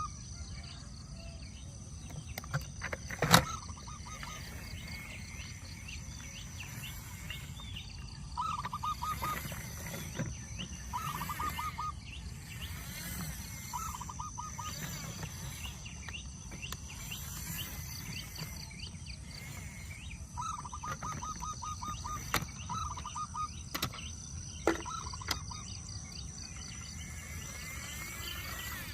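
Outdoor ambience: a bird repeating a short, fast trilled call every few seconds over a steady high insect drone. A few sharp clicks cut through, the loudest about three seconds in.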